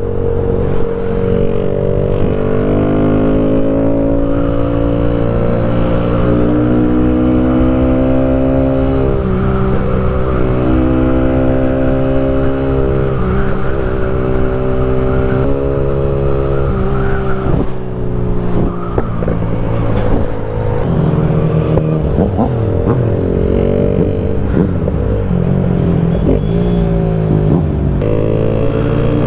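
Kawasaki Z125 small single-cylinder motorcycle engine under way at highway speed, its pitch climbing steadily and dropping again several times as it shifts up through the gears.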